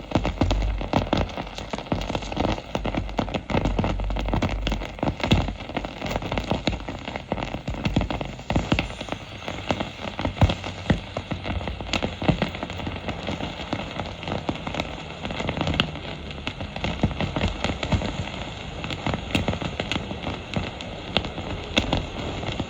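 Wood glue sizzling and crackling under a red-hot steel ball, with a dense run of fast, irregular pops.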